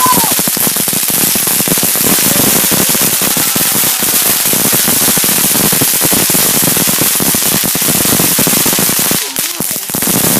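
Consumer fireworks crackling, a dense rapid run of small sharp pops, that breaks off briefly about nine seconds in and then resumes.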